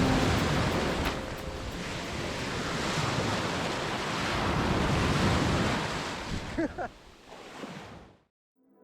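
Sea surf washing onto the shore, a steady rush that swells and eases, with some wind on the microphone; it fades out and cuts to silence near the end.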